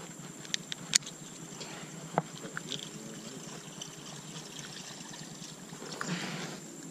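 Water trickling and splashing against the boat, with a few sharp clicks and a louder splash of water near the end.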